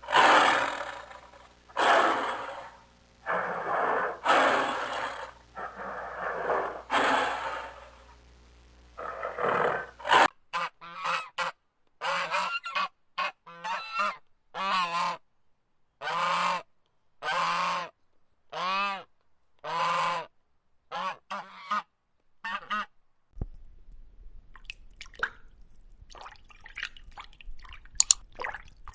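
A series of repeated animal calls: about eight harsh, noisy calls roughly a second apart, then a run of shorter, clearly pitched calls, then only faint scattered clicks near the end.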